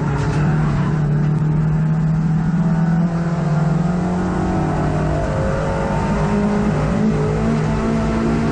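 Hot-hatch race car engine heard from inside the car, running hard at high revs on track. Its pitch shifts at the start and dips and climbs again about five to six seconds in, as with gear changes.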